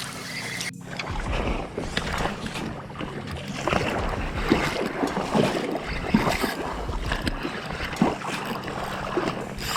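Water splashing and sloshing around a drift boat on a river, with irregular knocks and clatter.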